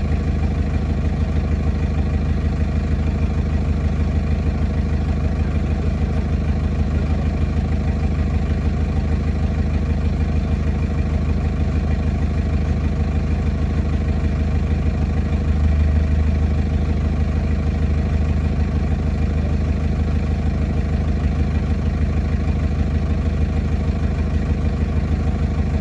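Large diesel engine idling steadily, with its low hum swelling briefly about two-thirds of the way through.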